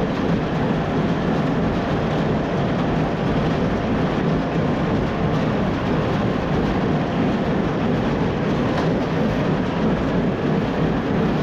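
International 1066 tractor's six-cylinder diesel engine running steadily under load while pulling a working New Holland Hayliner small square baler through the windrows.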